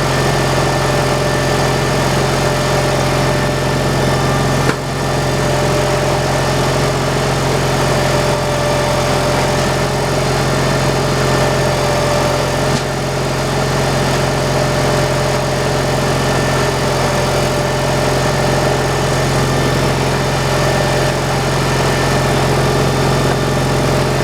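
Gas engine of an old slab-wood saw running steadily, with two short knocks, one about five seconds in and one near the middle.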